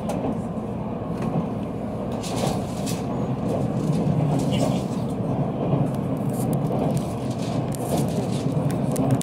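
Tokaido Shinkansen train running, heard from inside the passenger cabin: a steady rumble with a few brief clicks scattered through.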